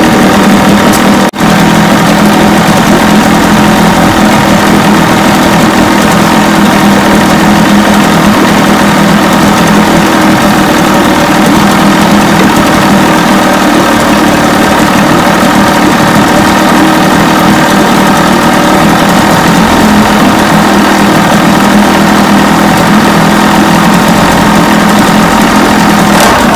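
1980 Chrysler 45 hp two-stroke outboard motor running steadily at an even speed, firing on both cylinders now that its ignition coils have been replaced. The sound cuts out for an instant about a second in.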